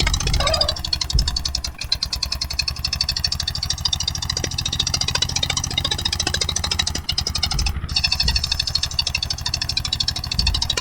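Eicher 241 tractor's diesel engine running steadily, with a fast, even beat of firing strokes.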